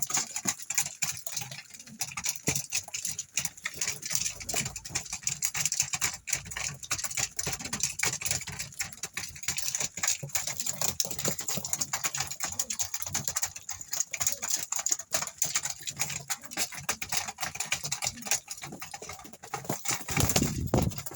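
Pigeons pecking at scattered feed: a dense, irregular patter of small clicks. A louder low rumble comes in near the end.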